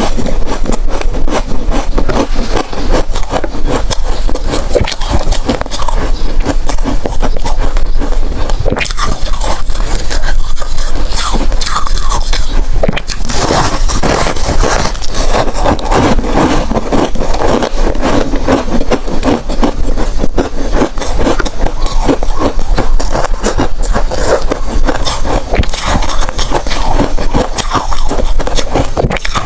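Close-miked biting and chewing of hard freezer ice: dense, continuous crunching and crackling.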